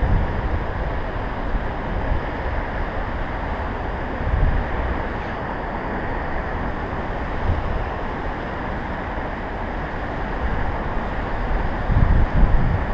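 Strong wind buffeting the microphone: a steady rushing noise with low rumbling gusts a few times, the loudest near the end.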